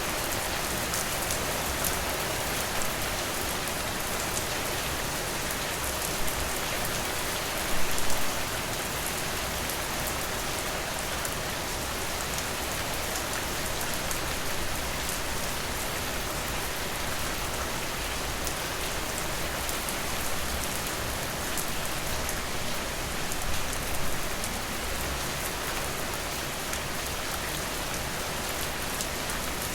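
Steady rainfall, an even wash of drops, with brief louder bursts of drops about eight seconds in and again near the end.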